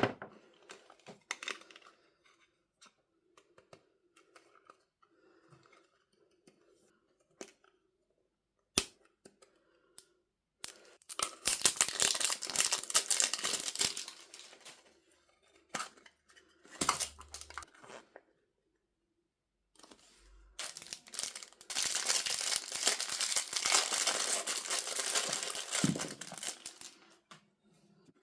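Surprise-toy packaging torn open and crinkled by hand in two long stretches, about ten seconds in and again from about twenty seconds, with light taps and rustles between.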